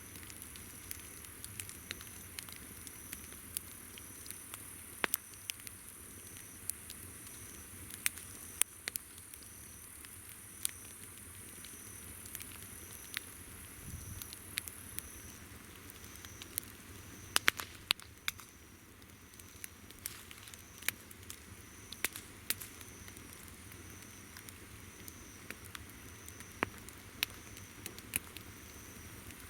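Wood campfire crackling, with scattered sharp pops. Insects call behind it: a steady high trill that stops about halfway through, and another insect pulsing about once a second.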